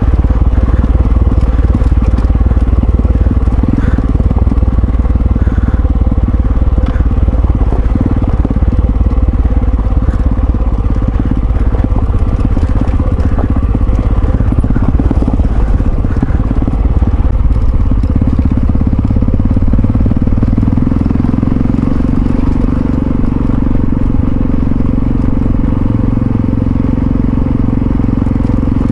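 Yamaha XT660Z Ténéré's single-cylinder engine running steadily while the motorcycle is ridden. About two-thirds of the way through the engine note settles into a steadier, slightly higher tone.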